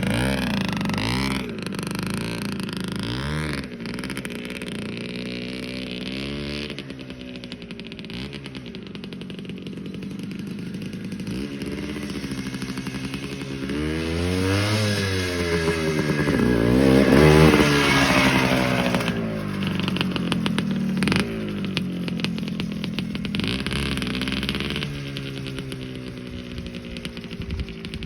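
Hodaka 250 two-stroke single-cylinder dirt bike engine running on its first start after years of sitting, revved up and down again and again with the throttle. The hardest revving comes a little past halfway.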